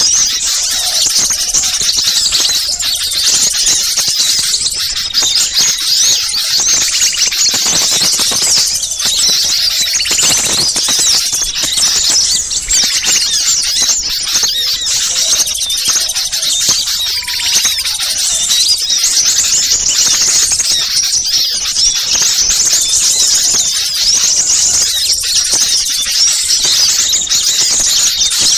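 Many small birds calling at once in a dense, unbroken chatter of rapid high-pitched chirps and twitters: the agitated calling played as a lure to draw wild small birds in.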